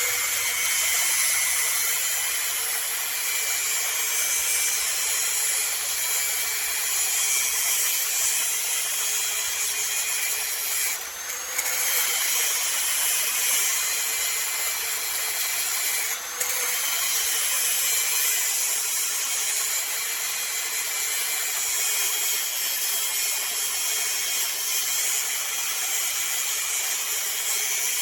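A handheld power tool's motor running continuously, a steady hum under a strong high hiss, briefly easing and picking up again about 11 and 16 seconds in.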